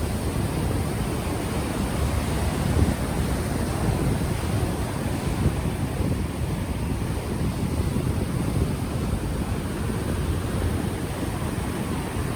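Ocean waves washing on the shore, mixed with wind buffeting an unshielded microphone, a steady rushing noise with a rumble.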